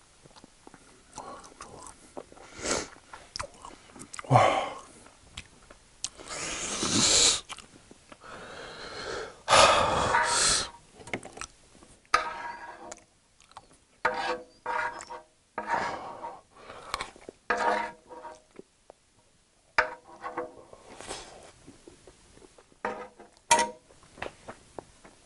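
Close-miked eating sounds: a person chewing scrambled egg with his mouth full, while a wooden spoon scrapes scraps of egg across a coated electric griddle. Several short pitched sounds come in clusters in the second half.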